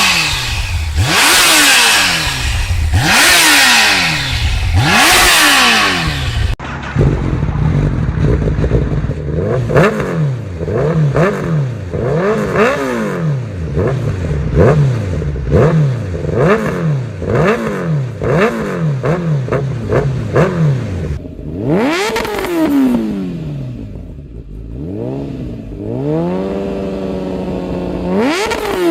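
Motorcycle exhaust as the engine is revved again and again: three loud revs in the first six seconds, then a string of quick throttle blips about one a second, and near the end a longer rev held high before dropping.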